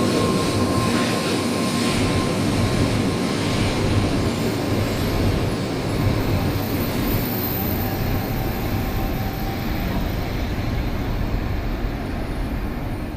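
Shinkansen train running on the station track, a steady rumble of wheels and running gear with a faint motor whine, fading near the end.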